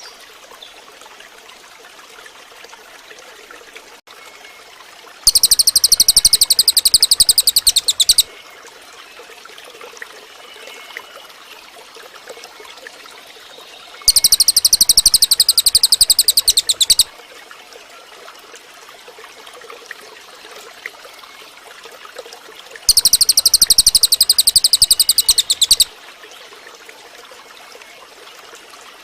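Cililin bird singing: three loud, very fast rattling trills of about three seconds each, spaced evenly about nine seconds apart, over a faint steady hiss like trickling water.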